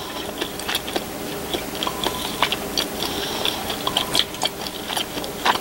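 A person chewing a mouthful of pork stir-fry with the mouth closed: irregular soft clicks and crunches.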